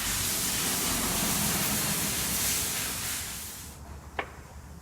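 A steady hiss that cuts off suddenly about three and a half seconds in, followed by a single sharp click.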